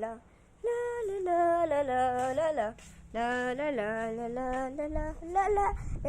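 A high voice singing or humming a tune in short phrases of held, gliding notes. A low rumble comes in near the end.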